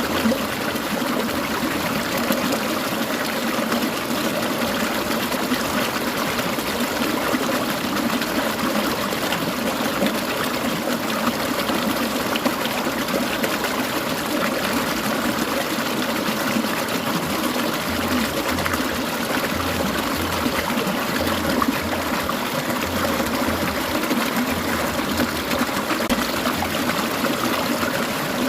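A clear mountain stream trickling and babbling over rocks, a steady dense splashing with no breaks.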